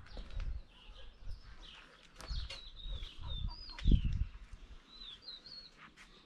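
Birds chirping repeatedly in short, high chirps. A dull low thump comes about four seconds in.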